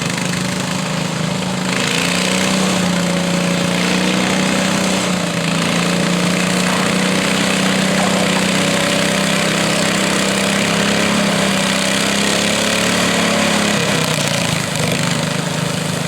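Garden tractor engine running loud and steady at high throttle, as when pulling the sled in a garden tractor pull. The engine note changes about fourteen seconds in.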